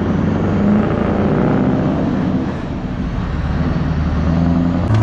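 Scania R500 V8 diesel engine through a straight-piped exhaust, pulling away under load with a deep pulsing note. The level dips briefly about two and a half seconds in, then the engine pulls again.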